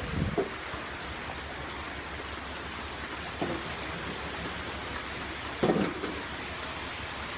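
Steady heavy rain from a tropical storm, an even hiss, with a few brief louder sounds about three and a half seconds in and again near the end.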